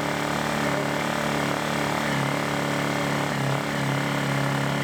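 Lifan ESI860i-CA 40cc inverter generator running steadily just after its first start, with its choke being moved to fully open. The running tone wavers slightly in pitch.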